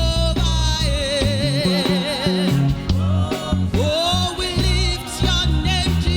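Gospel worship music: long, held sung notes with a wide vibrato over a band backing with a bass line that steps from note to note.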